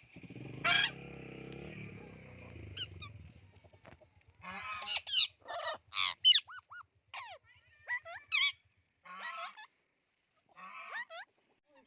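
Birds calling: one loud call about a second in over a steady low hum, then from about four seconds in a run of short, loud calls that sweep up and down in pitch.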